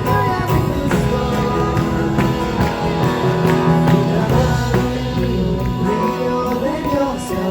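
Christian worship song played by a band with guitars and bass, in a passage between sung lines, with some voices singing along.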